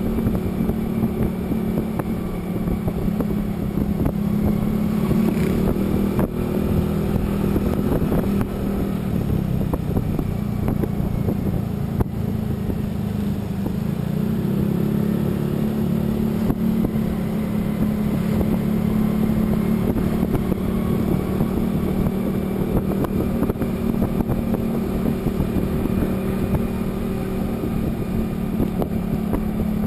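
Motor vehicle engine running steadily while on the move, over road and wind rumble. The engine note drops about eight seconds in and climbs back a few seconds later.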